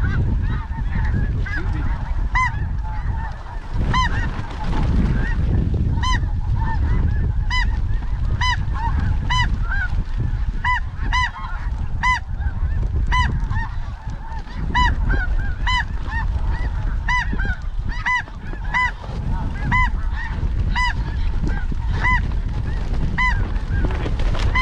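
Snow goose calls: short, high-pitched honks repeated about twice a second, over a steady low rumble of strong wind on the microphone.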